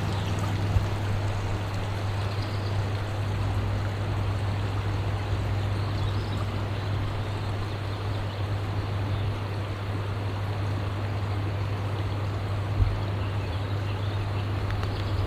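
Steady rushing water, with a deep steady rumble underneath.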